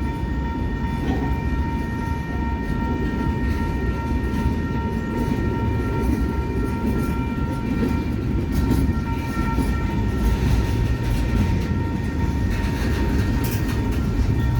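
Train passing close by, a steady heavy rumble of wheels and cars on the rails. A steady high ringing tone runs over it and fades out about two-thirds of the way through.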